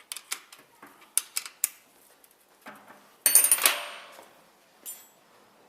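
Metal tools and gearbox parts clinking, a series of light clicks and one louder metallic clatter a little past halfway that rings and fades over about a second.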